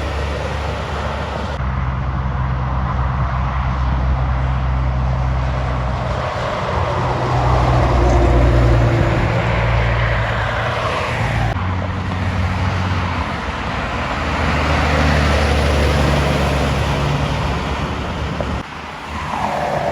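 Heavy diesel trucks driving past on a road: a steady low engine drone with tyre and road noise that swells and fades as each truck goes by. The sound changes abruptly a few times, as at cuts between clips.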